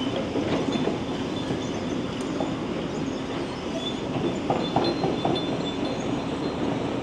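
Demolition excavator working a building: a steady mechanical rumble with crunching and a thin metallic squeal, and a quick run of sharp knocks about four and a half seconds in.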